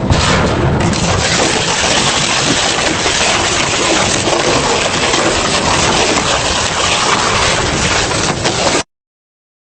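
Double-shaft industrial shredder running and grinding material, a loud steady grinding noise that cuts off suddenly near the end.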